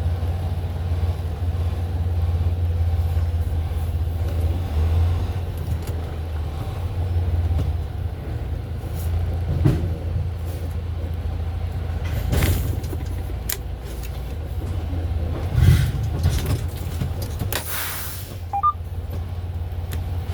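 Semi-truck engine running with a steady low rumble, with a few scattered knocks and a short hiss near the end.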